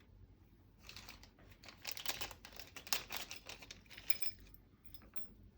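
Small hardware bag rustling and crinkling as it is opened and emptied, with small metal screws and parts clinking together in irregular bursts.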